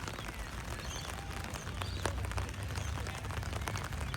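Steady outdoor background noise at a sports ground, with a low rumble and a few faint, distant high calls.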